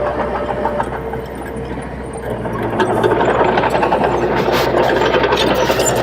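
Diesel engine of heavy earthmoving machinery running steadily, growing louder about halfway through, with some light clatter.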